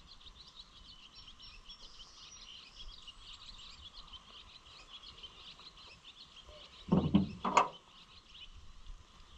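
A steady outdoor chorus of many small chirping calls from birds, frogs or insects. About seven seconds in there is a brief, loud two-part knock or clatter.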